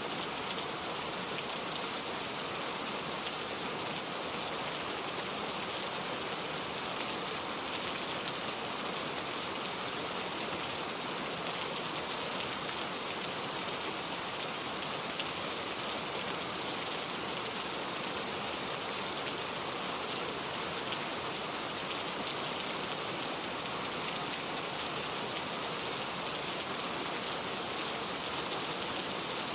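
Steady rainfall, an even hiss of falling rain with scattered drop ticks, unchanging throughout.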